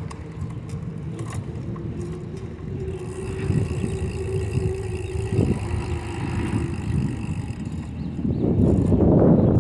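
Wind rushing over the microphone and tyre noise while riding a bicycle on pavement, getting louder near the end. A faint steady hum runs through the middle.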